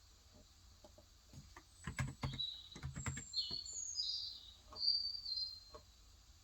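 A quick cluster of keystrokes on a COX Endeavor 35 g electrostatic capacitive (Topre-style) keyboard, about two to three seconds in. Over and after them, a small bird outside chirps a rapid series of short high calls, loudest about five seconds in.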